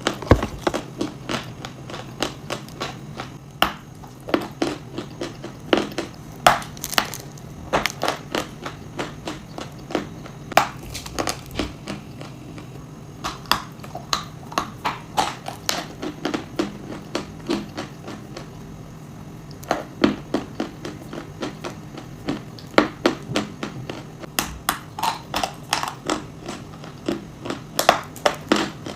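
Close-miked crunching as someone bites and chews hard, brittle chalk and clay with nuts: irregular sharp cracks, several a second in spells broken by short pauses, over a low steady hum.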